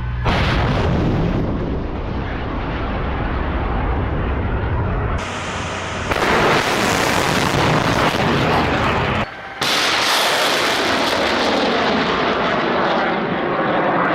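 Military weapons firing: a loud, sustained roar and rumble, in three stretches that change abruptly about five and nine seconds in.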